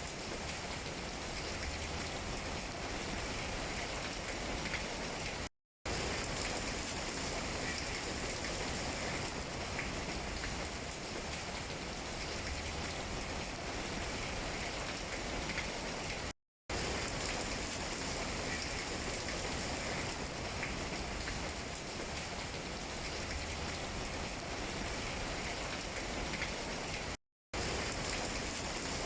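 Steady rain falling on tree leaves, an even patter with scattered drop ticks. The sound cuts out to silence for a split second three times, about eleven seconds apart.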